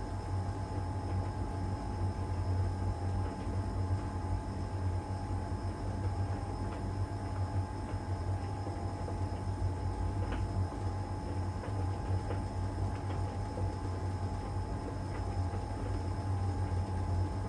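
LG heat pump tumble dryer running in its drying phase with the drum turning one way: a steady low hum with a constant tone above it, and a few faint scattered ticks.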